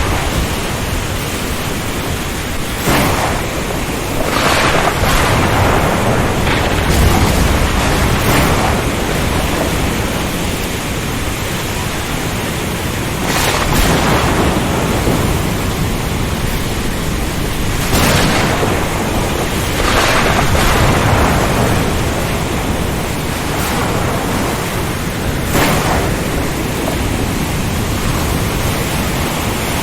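Storm-at-sea ambience: a dense, steady rush of heavy rain and strong wind, with louder surges of noise every few seconds.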